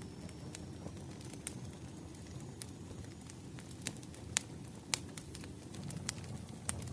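Wood fire crackling: irregular sharp pops and snaps over a low steady rumble, the two loudest pops a little after the middle.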